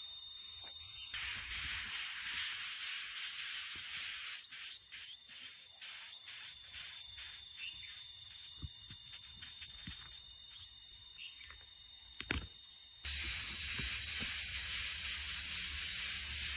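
Steady high-pitched hiss of outdoor background noise with a faint insect-like drone, and a few soft clicks in the middle. It changes abruptly about a second in and again near the end.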